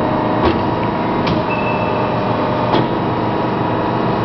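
Cosen SH-700DM bandsaw's hydraulically powered vices travelling in or out, with a steady mechanical hum. Three sharp clicks come through, about half a second, a second and a quarter, and nearly three seconds in.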